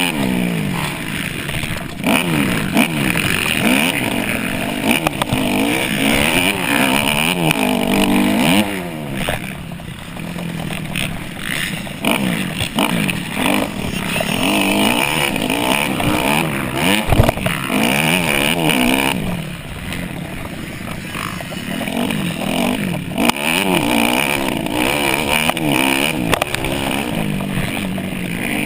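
Dirt bike engine revving up and down over and over as the throttle opens and closes through the gears, with a sharp knock about two-thirds of the way through.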